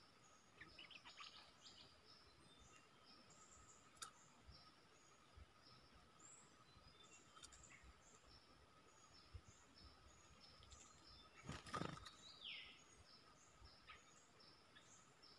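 Faint bird calls: scattered short high chirps and, about three-quarters of the way through, one falling whistle, over a faint steady high tone. Just before the whistle there is a brief louder rustle, the loudest sound here.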